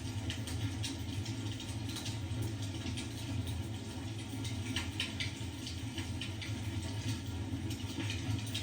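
A fire in a fireplace crackling, with frequent small irregular pops and snaps over a steady low rumble.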